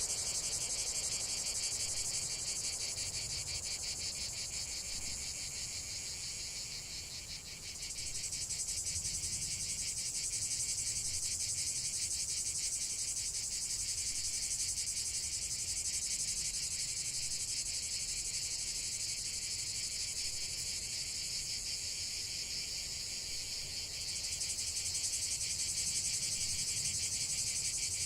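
A dense, steady chorus of insects trilling high. It eases briefly about seven seconds in and again near the end.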